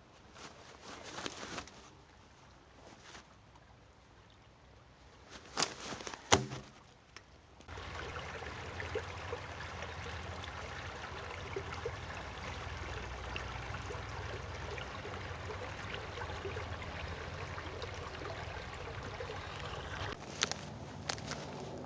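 A few sharp knocks and clicks, then a small forest stream running steadily with a low rush and bubbling trickles.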